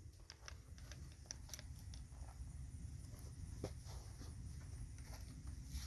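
Faint scattered clicks and light taps of an angle grinder being handled as it is unplugged to have its broken disc changed, over a low steady hum.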